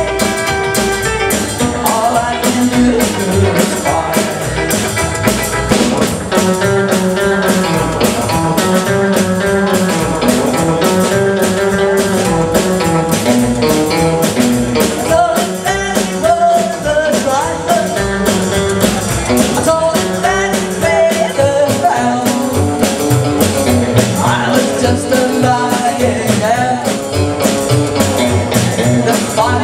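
Live rock and roll band playing: a drum kit keeping a steady, driving beat under electric guitar and singing.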